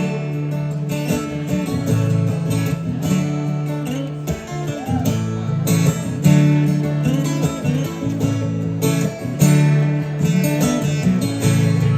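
Acoustic guitar strummed steadily in a slow rhythm, a chord progression played without vocals.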